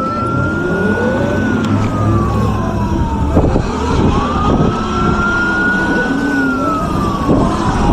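Emergency vehicle siren in a slow wail, rising and falling twice, over a steady low rumble of wind and road noise.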